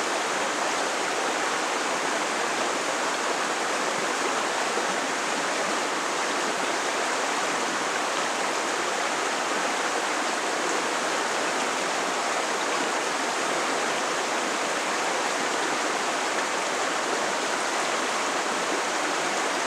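Creek water flowing over rocks: a steady, even rush and babble.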